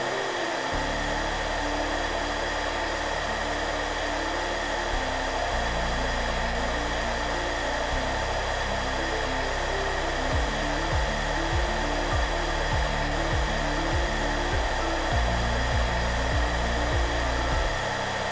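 Hairdryer running steadily: a constant rush of air with a steady motor whine, under soft background music. Low melody notes sound throughout, and from about ten seconds in the bass plays short repeated notes roughly twice a second.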